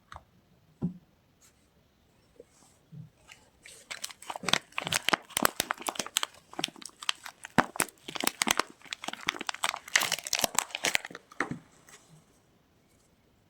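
Soap packaging being torn open and crinkled by hand: a soft knock, then several seconds of dense crackling and tearing that stops shortly before the end.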